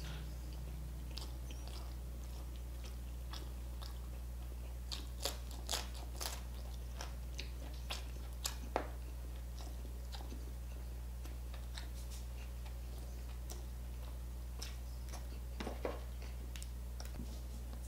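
Close-miked chewing of crispy lechon, mouth closed, with scattered crunches and wet mouth clicks. They come thickest about five to nine seconds in and again near the end, over a steady low hum.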